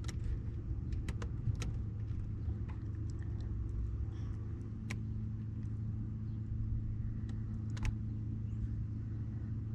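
An RV's 12-volt fresh-water pump running continuously with a steady low hum, a second higher hum joining about halfway, and scattered faint clicks. It keeps running without shutting off, as if it cannot build pressure; the owners suspect it is refilling the just-drained water heater, or that something is wrong.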